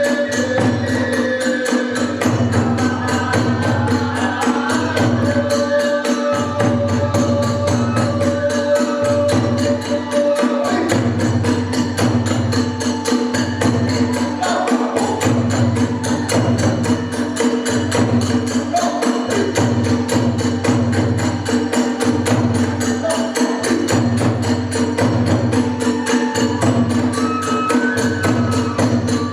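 Kagura hayashi ensemble playing. Tebyōshi hand cymbals keep up a fast, dense clatter over a steady drum beat, with a transverse flute carrying a sustained melody.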